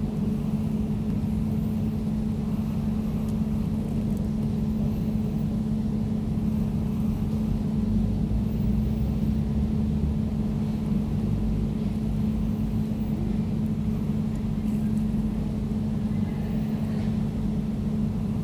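Air conditioner running steadily: a constant low hum with a fainter higher tone over a rushing noise of moving air.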